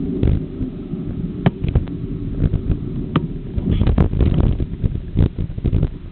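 Wind buffeting the microphone with a low rumble, and irregular sharp knocks and rattles as the bicycle rolls over the road surface.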